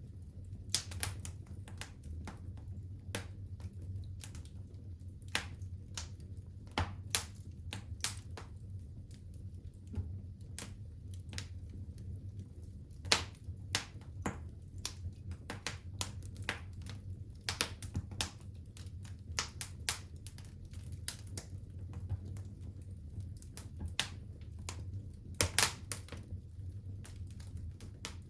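Wood fire in a fireplace crackling, with irregular sharp pops and snaps over a steady low hum. There are a few louder pops about halfway through and a cluster near the end.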